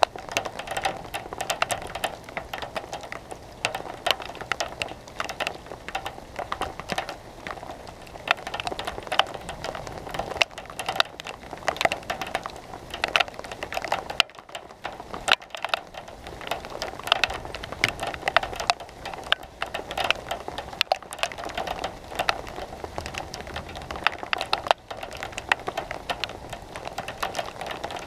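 Rain pattering, with dense irregular ticks of drops striking close to the microphone.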